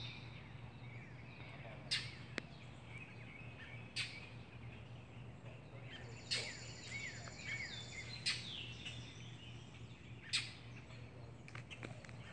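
Small birds chirping, with short calls and a brief high trill about six seconds in, over a low steady hum. A few sharp clicks sound at intervals of about two seconds.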